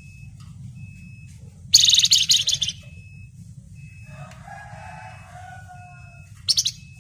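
Flamboyan songbird singing: a loud, dense burst of rapid, shrill trilled notes about two seconds in, lasting about a second, then softer, lower warbling notes and a second short shrill burst near the end.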